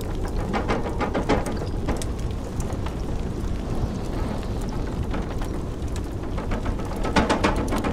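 Wood fire crackling and popping in a fireplace, with clusters of pops about a second in and again near the end, over the steady low rumble of blizzard wind.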